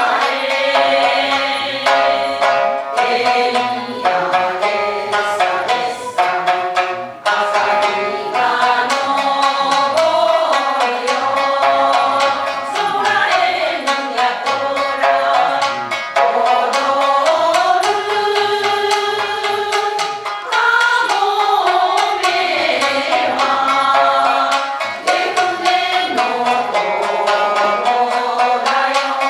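Japanese min'yō folk song sung by a group, accompanied by shamisen and shakuhachi. Melodic lines slide up and down over the shamisen's steady plucking.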